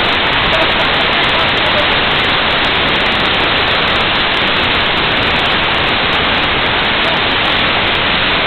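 Waterfall's falling water making a steady, loud rush of noise, with no change throughout.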